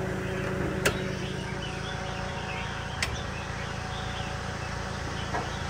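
Toyota Matrix four-cylinder engine idling smoothly with the air conditioning on full: a steady low hum. Two sharp clicks, about a second in and about three seconds in.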